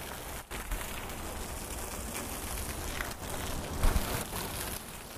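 Steady rain falling, with crackly rustling of a plastic bin liner being pulled out of a recycling bin. A brief low bump comes near four seconds in.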